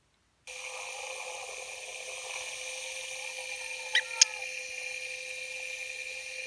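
Sped-up recording of a workroom's background noise played back: a steady high-pitched whine with a hiss, faint wavering tones underneath that the uploader hears as scary, ghostly sounds, and two sharp clicks about four seconds in.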